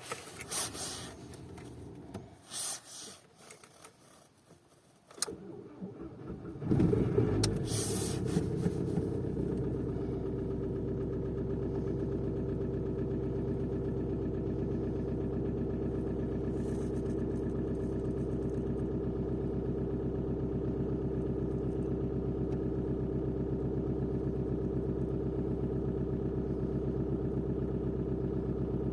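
A few clicks, then the VW Golf Mk4's 1.9 TDI four-cylinder diesel cranks briefly and catches about seven seconds in with a loud flare of revs. It settles within a few seconds into a steady idle: a cold start after standing a few days.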